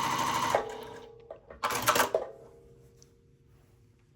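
Juki TL-15 semi-industrial straight-stitch sewing machine stitching steadily at speed through scrap fabric, then stopping abruptly about half a second in. A faint hum lingers, with a few clicks and a brief clatter a second or so later.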